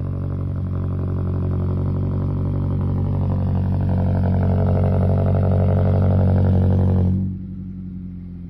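Car engine idling after a cold start, a steady deep drone through a freshly repaired exhaust that sounds clean rather than broken. The level swells a little, then drops suddenly about seven seconds in.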